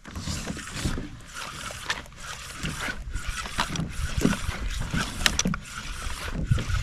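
Water slapping and splashing against a fishing kayak's hull on open sea, with irregular small knocks and a continuous low rumble.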